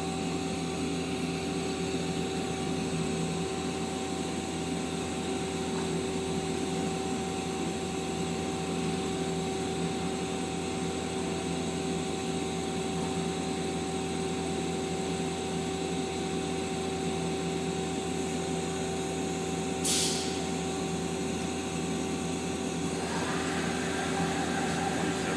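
Mazak Quick Turn Nexus 200MS CNC turning center running with its sub-spindle spinning up to speed: a steady machine hum with several steady tones. There is a brief hiss about 20 seconds in, and the sound grows a little louder near the end.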